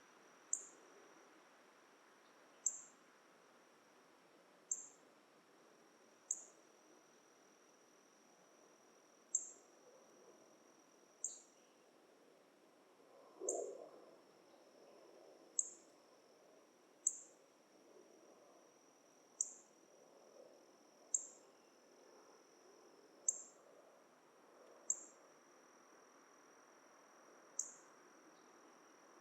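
Dusk forest insect chorus: a steady high-pitched trill runs under a sharp, high chirp that repeats every one and a half to two seconds. A brief lower call stands out about halfway through.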